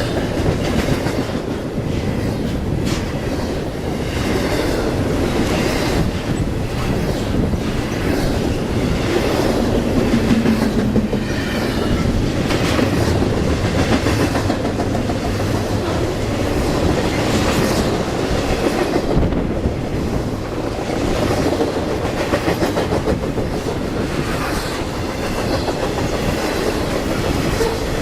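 A train's cars rolling past, steel wheels clicking rhythmically over the rail joints with a continuous rumble and faint wheel squeal.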